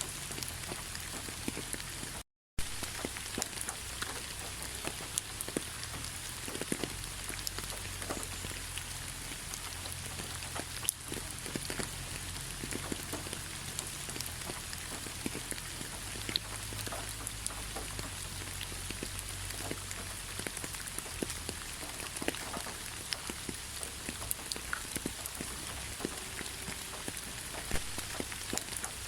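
Steady rain falling, with many separate drops ticking on a hard surface over an even hiss. The sound cuts out to silence for a fraction of a second about two seconds in.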